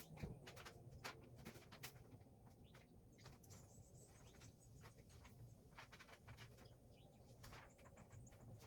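Near silence: faint room tone with scattered short clicks and a few faint high chirps.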